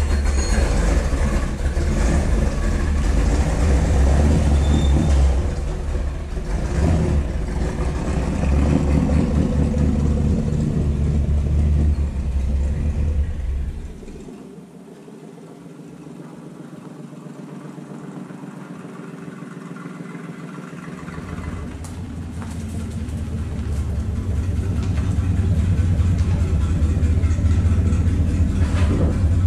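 Car engine running with a heavy low rumble; about halfway through the rumble drops away for several seconds, leaving a much quieter sound, then comes back and builds up again.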